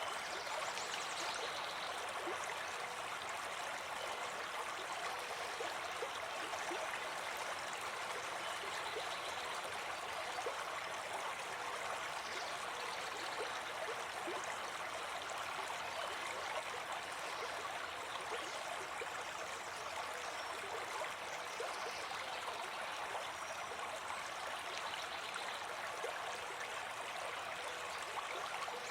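Brook babbling steadily, with an even rush of running water.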